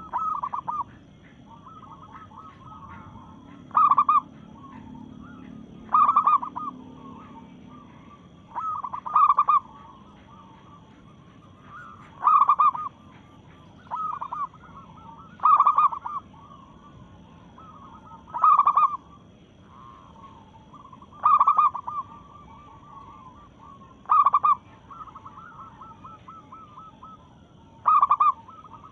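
Female zebra dove (perkutut) cooing to call males. A loud call comes about every three seconds, with softer rolling coos between.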